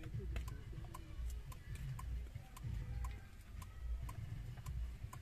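Steady, faint ticking about twice a second, typical of a car's indicator flasher ticking inside the cabin.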